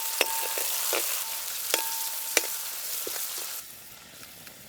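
Chopped onion and tomato frying in hot oil in a pan, sizzling, with a spatula stirring and clicking against the pan now and then. The sizzling drops off abruptly about three and a half seconds in.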